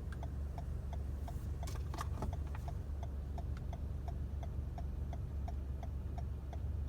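Steady ticking of a car's turn-signal indicator, about three clicks a second, over a low steady engine hum heard inside the car. A few sharper clicks come about two seconds in.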